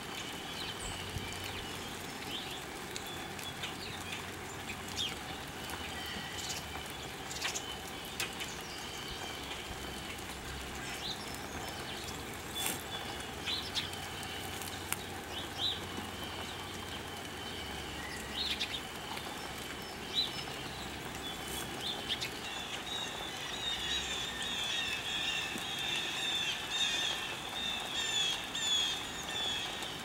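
Small birds chirping: scattered short chirps at first, then from about two-thirds of the way in a dense, continuous chatter of many birds, over a steady outdoor hiss.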